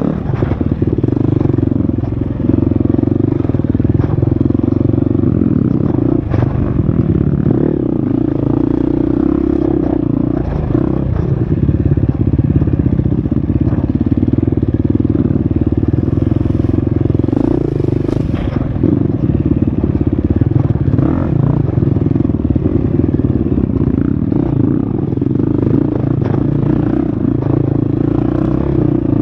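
Husqvarna FX 350 dirt bike's four-stroke single-cylinder engine running hard on a trail, its revs rising and falling with the throttle, with occasional knocks from the bike over rough ground.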